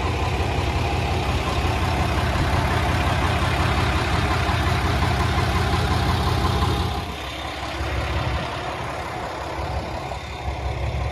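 A vehicle running with a steady low rumble and hum, dropping somewhat in level about seven seconds in.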